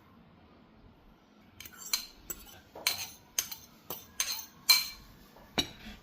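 Metal cutlery clinking and scraping against a dish: after a quiet start, about nine sharp clinks in quick, uneven succession.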